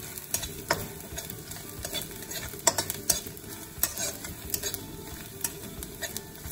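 Flat metal spatula scraping and clinking irregularly against a metal kadai while grated food with seeds sizzles in hot oil.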